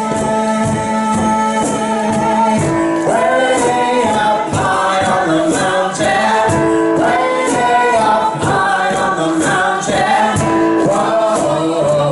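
A song sung by a group of voices over a steady percussion beat of about two strikes a second.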